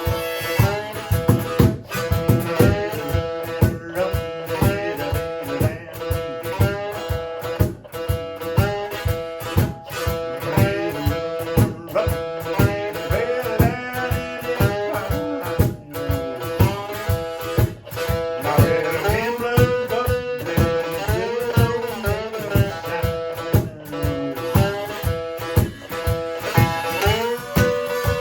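Instrumental blues on a one-string guitar and a cajón. The string plays sliding, bending notes over a steady cajón beat.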